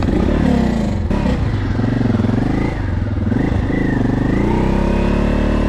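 Honda Transalp 600's V-twin engine revving up and down as the bike is worked through a bad, slippery patch, then holding a steadier, higher note for the last second or so.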